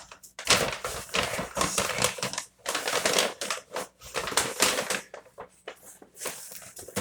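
Takeout packaging being handled and opened, with irregular rustling and crinkling throughout.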